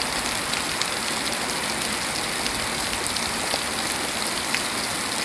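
Steady rain falling, a dense even hiss with scattered drops pattering on surfaces.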